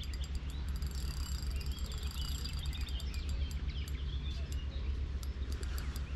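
Small birds chirping and singing over a steady low rumble, with scattered light clicks.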